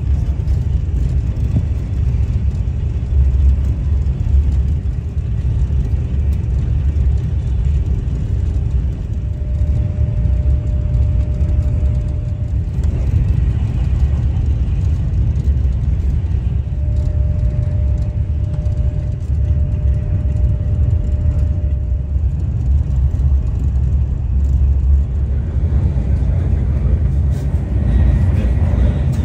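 Steady low rumble of a high-speed train running at speed, heard from inside the carriage, with a faint thin whine that comes and goes twice in the middle.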